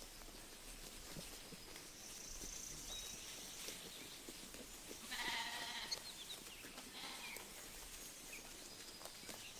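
A sheep bleats once for under a second, about five seconds in, with a fainter short call about two seconds later. Birds chirp across the field, and small soft clicks and rustles of grazing sound throughout.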